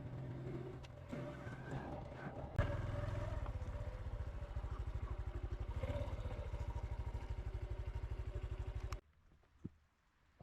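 Honda CT125's single-cylinder engine running at low revs with a steady, rapid thump. There is a sharp click a couple of seconds in, and the sound cuts off abruptly near the end.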